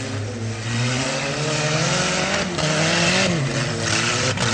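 Stock-car engines racing on a grass and dirt track, their revs rising and falling as the cars accelerate and lift off.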